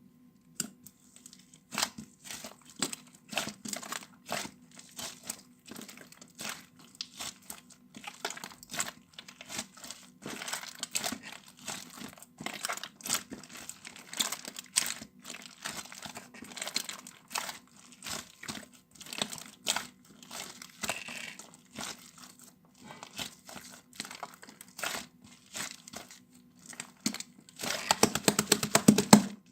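Irregular crinkling and crackling, many small crisp sounds over a faint steady low hum, with a fast, dense run of them near the end.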